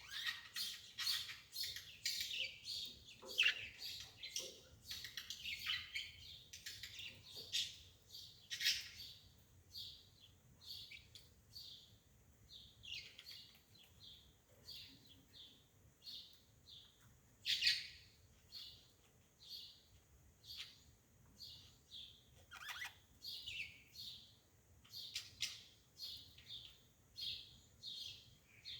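Small birds chirping: short, high chirps, densely overlapping for the first several seconds, then coming singly about once or twice a second.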